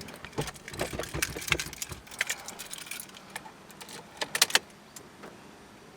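Car keys jangling, with irregular clicks and rattles and a few sharper clicks about four and a half seconds in, as the ignition key is handled before the engine is started.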